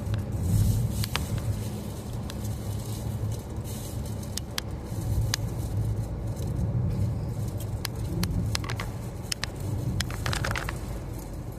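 Steady low rumble of a car driving, heard from inside the cabin, with scattered small clicks and rattles.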